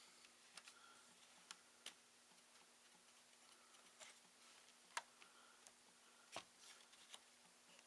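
Near silence broken by scattered faint clicks and taps of a laptop's parts being handled during disassembly, the loudest about five seconds in and another a little after six seconds.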